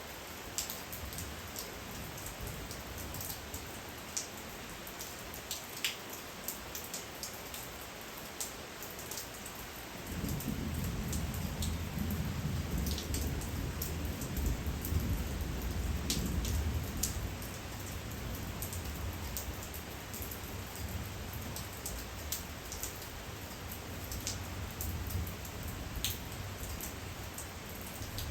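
Steady night rain falling, with individual raindrops ticking sharply on nearby surfaces. About a third of the way in, a low rumble swells for several seconds and then eases off, staying faintly under the rain.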